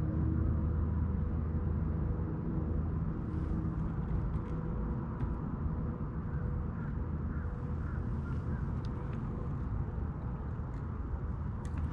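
A boat's outboard motor running steadily under way: a low, even drone with a thin steady whine above it.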